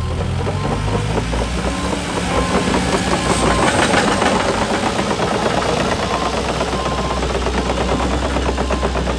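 Caterpillar CAT 310 excavator's diesel engine running with a steady clatter. It gets louder for a couple of seconds a few seconds in, then settles back.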